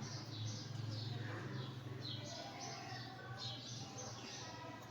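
Lovebirds chirping: many short, high, downward-sliding calls, several a second, over a steady low hum.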